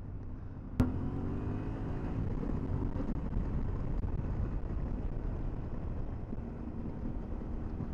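Motorcycle engine running, heard from a helmet camera; a sharp click about a second in, then the engine note rises as the bike accelerates.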